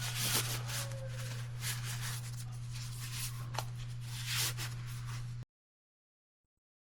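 Irregular rustling and handling noises over a steady low hum, cut off abruptly to silence about five and a half seconds in.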